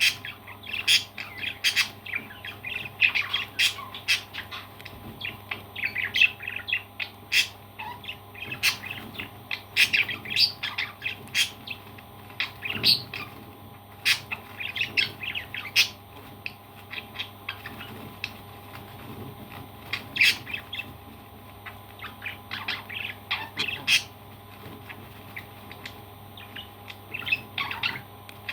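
Parrots chirping and squawking in short, rapid clusters of calls and sharp clicks, with brief quieter gaps between clusters.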